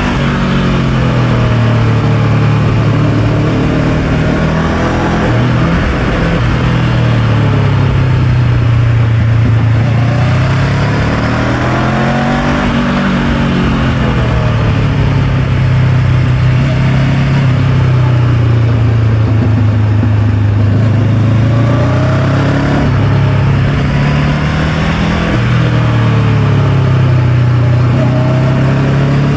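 Honda NX500's parallel-twin engine running under way, its note steady for long stretches, dipping and climbing again around the middle and a few seconds before the end.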